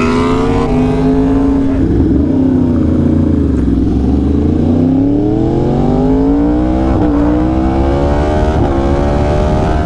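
2020 Yamaha R1's crossplane inline-four running through an SC Project exhaust under way: revs fall off for a few seconds, then climb again under acceleration, with two quick upshifts near the end.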